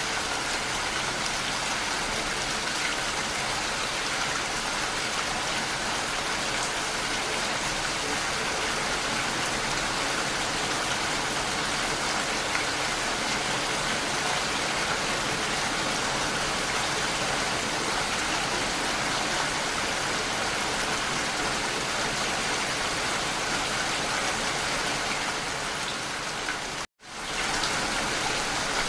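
Steady, even rainfall. About 27 seconds in it cuts out completely for a moment and then fades back in.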